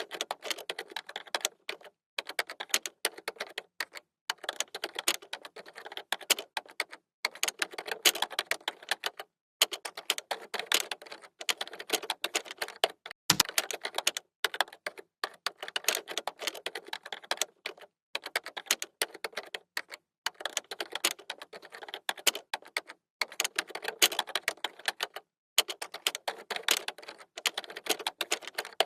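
Computer keyboard being typed on in quick runs of keystrokes with brief pauses between them, and one deeper knock about halfway through.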